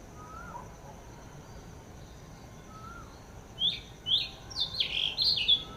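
Songbirds calling: a few soft, low whistled notes, then about three and a half seconds in a loud run of sharp, high chirps, each sliding downward, several in quick succession.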